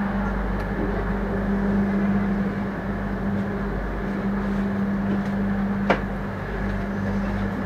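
Steady low machinery hum inside a passenger train car, with a single sharp click about six seconds in.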